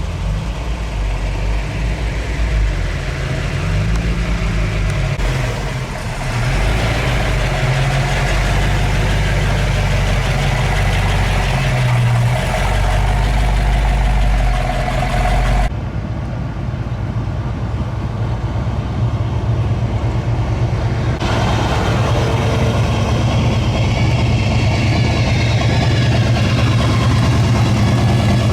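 Car engines with a low rumble, idling and running at low speed as show cars roll in. The sound changes abruptly about two-thirds of the way through, to a different engine.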